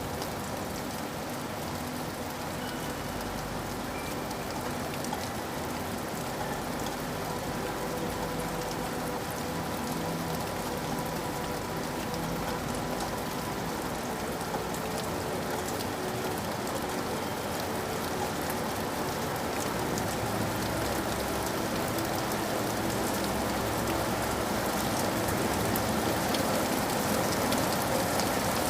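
Steady rain falling, with the patter of individual drops hitting a surface; it grows a little louder toward the end.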